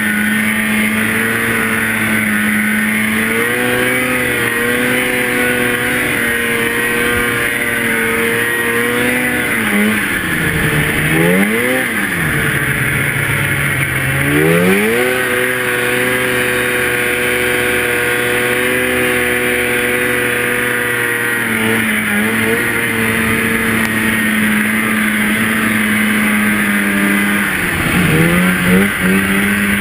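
Two-stroke snowmobile engine running at steady high revs. The pitch drops and climbs back as the throttle is let off and reopened, twice in a row about ten to fifteen seconds in, and again near the end.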